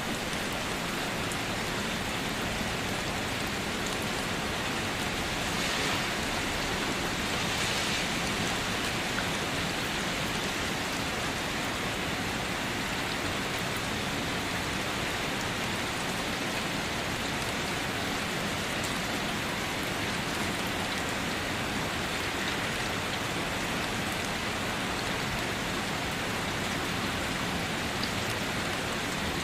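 Steady rain falling, an even hiss of many drops, swelling slightly for a couple of seconds about six seconds in.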